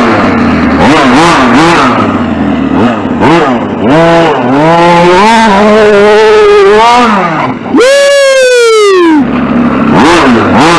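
RC short-course truck's motor whining up and down in pitch as the throttle is worked in repeated bursts. About eight seconds in it revs sharply to a high whine that winds down over about a second and a half.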